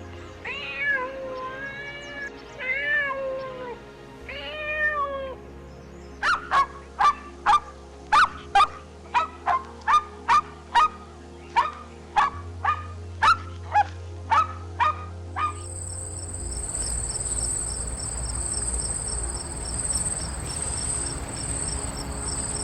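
A cat meowing several times, then a quick run of about twenty short, sharp calls from another animal, then steady high chirping of crickets from about two-thirds of the way in.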